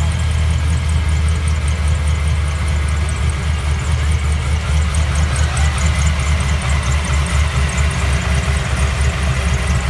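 Whipple-supercharged V8 of a Camaro SS idling with a deep, uneven, loping beat.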